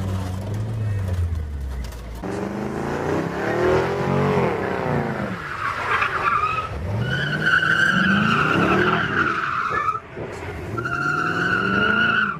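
A car's engine revving up and down, then tyres squealing in long steady screeches from about seven seconds in. The squeal breaks off suddenly near ten seconds and starts again a second later.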